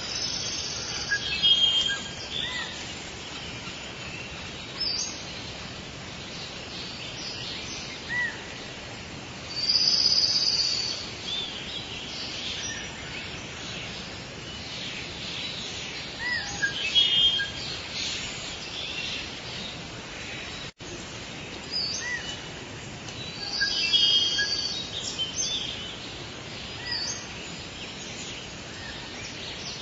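Forest bird ambience: several birds chirping and calling over a steady background hiss, with louder clusters of calls every seven or eight seconds. A momentary drop-out in the sound comes about two-thirds of the way through.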